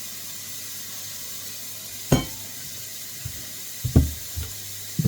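Wok of vegetables and onions sizzling with a steady hiss, with a few sharp clunks of kitchenware being handled and set down about two, four and five seconds in.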